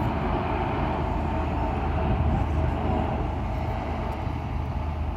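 Steady low engine rumble with a constant background noise.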